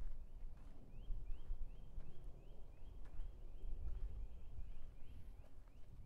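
A bird repeating a short high note about four times a second, in a long even series that starts about half a second in, over footsteps on a forest path and a steady low rumble.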